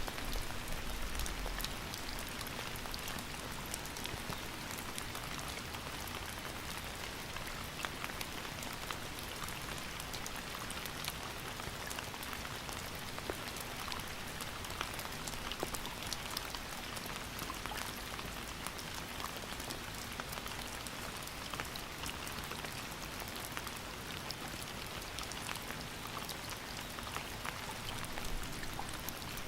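Steady rain falling, a dense even hiss full of individual drops pattering on hard surfaces.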